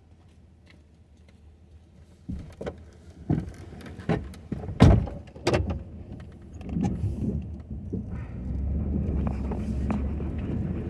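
Several clunks and knocks of a pickup truck's door and cab being handled, the loudest about five seconds in. From about eight seconds in, the truck's engine runs with a steady low rumble.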